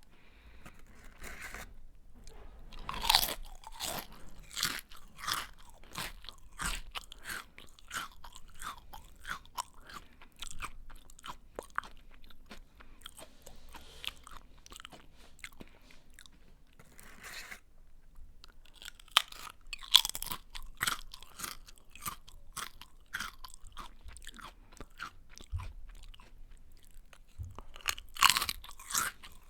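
A person biting into and chewing a crunchy snack: three loud crunching bites, about 3 seconds in, around 20 seconds and near the end, each followed by a run of smaller chewing crunches that thin out.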